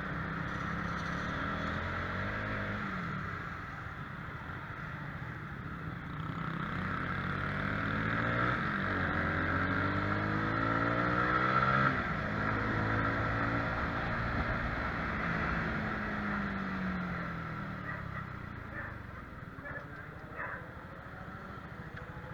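Motorcycle engine running on the road, its pitch rising and falling as it accelerates and eases off, with steady wind and road noise; about halfway through another engine's pitch crosses it, as of a vehicle passing.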